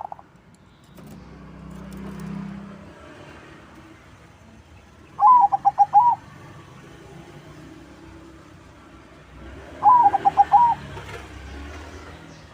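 Crossbred zebra dove (perkutut) cooing: two song phrases, each a quick run of five or six clipped notes lasting about a second, the first about five seconds in and the second near ten seconds.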